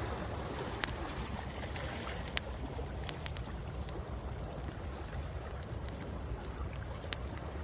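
Driftwood bonfire crackling, with sharp isolated pops every second or two, over a steady low rumble of sea waves on the shore.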